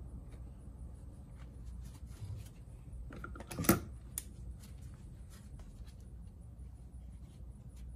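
Small clicks and clinks of starter-motor parts being handled and fitted during an overhaul, with one louder clatter about three and a half seconds in.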